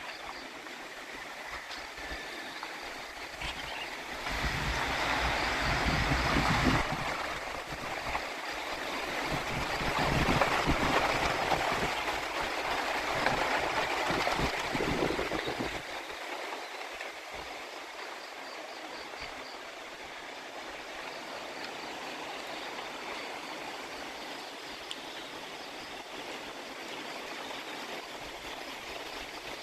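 Water flowing steadily, with strong wind gusting over it: the wind swells loudly about four seconds in and again for several seconds from about ten seconds in, buffeting the microphone with a low rumble, then eases back to the steady flow.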